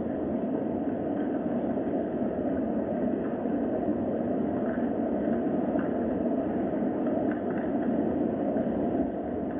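Steady rain ambience: a dense, even hiss with no breaks.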